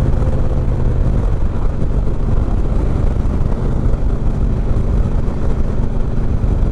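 Harley-Davidson Road King's 103 cubic-inch V-twin running on the road through an Ultima Dominator 2-into-1 exhaust, a steady deep exhaust rumble while riding.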